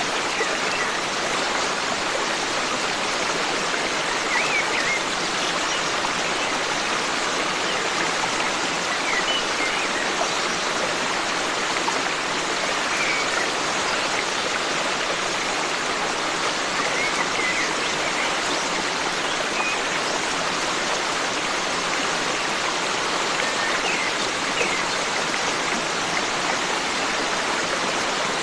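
Forest stream running steadily over rocks, with faint, short bird chirps every few seconds.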